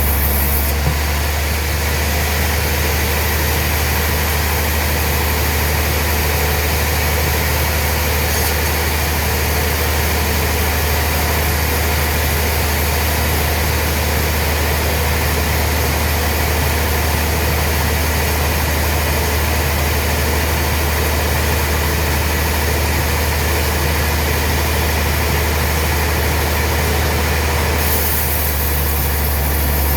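Sawmill machinery running steadily, with a strong, deep hum under a wide hiss.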